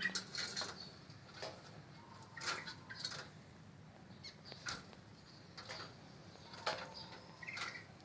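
Birds in an aviary making scattered short chirps and sharp clicks, one or two every second, irregular.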